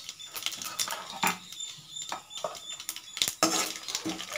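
Mustard seeds, chana dal and urad dal crackling and popping in hot oil in a kadai as they fry for a tempering. A bit over three seconds in, a metal ladle knocks against the pan and starts stirring, and the sizzling gets louder.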